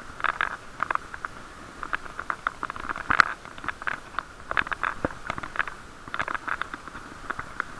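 Irregular clicks and knocks, several a second, from the action camera rattling inside its waterproof case as the bicycle rides over the road. The sound is muffled by the sealed housing.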